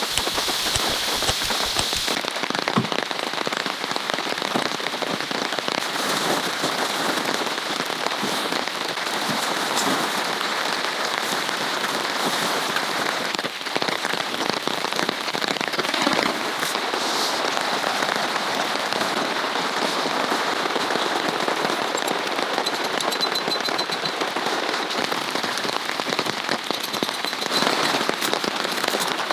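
Steady rain falling, with many single drops tapping sharply close by.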